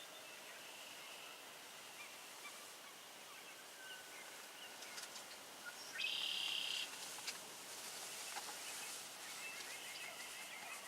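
Wild birds calling over a steady outdoor hiss: scattered short high chirps, one louder buzzy high call about six seconds in lasting under a second, and a quick run of repeated high notes near the end.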